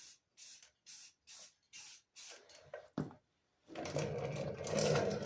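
Rust-Oleum high-heat aerosol spray paint can sprayed in short hissing bursts, about two a second, then a click about three seconds in and a longer continuous spray near the end.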